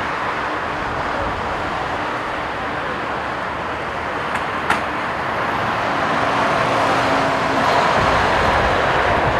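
Jet airliner engines on approach: a steady rushing roar that grows louder over the last couple of seconds, with one sharp click about halfway through.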